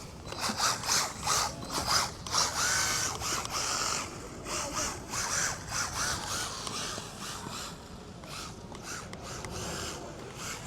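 Brushless electric motor of a 1:14 scale MJX Hyper Go RC rally car whining up and down in pitch on the 100% throttle setting, with repeated bursts of tyre scrub. Louder in the first few seconds, quieter after.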